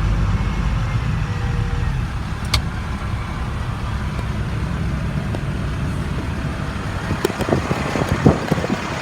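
International DT466 diesel engine of a dump truck idling with a steady low rumble. A single sharp click comes about two and a half seconds in, and a few knocks near the end.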